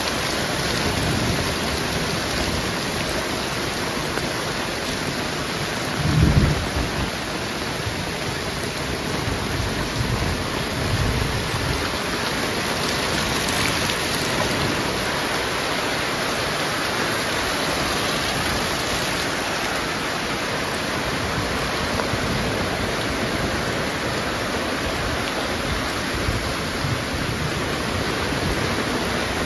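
Heavy rain falling steadily, a dense even hiss of downpour, with a brief low rumble about six seconds in.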